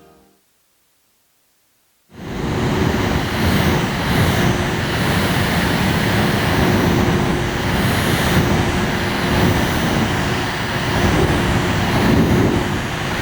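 About two seconds of silence, then a small portable air-conditioner fan starts and runs steadily, blowing a rush of air with a faint steady hum underneath.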